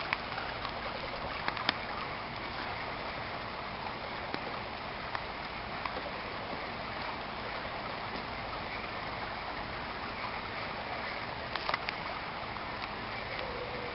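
Steady heavy rain falling in a tropical storm, an even rushing hiss. Scattered sharp taps of drops land on top of it, a few in the first couple of seconds and a small cluster near the end.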